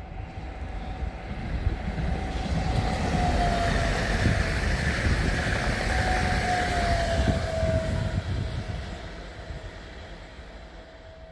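A BRB Stadler FLIRT electric multiple unit passing at speed: the rush and rumble of wheels and air build up, peak as it goes by and fade as it recedes. A wavering whine rises and dips twice around the middle of the pass.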